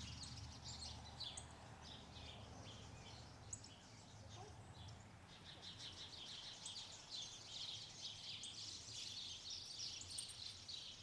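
Small birds chirping and twittering in a busy chorus of short high calls that grows denser about halfway through, over a faint low rumble that fades out around four seconds in.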